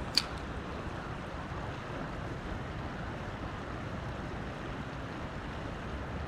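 Steady outdoor noise of wind and water on a river, with one sharp click shortly after the start.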